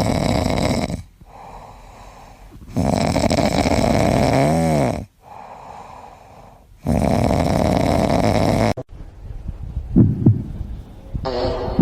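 Loud snoring: three long snores roughly three seconds apart, with quieter breathing between them. A brief rising-then-falling tone rides near the end of the second snore.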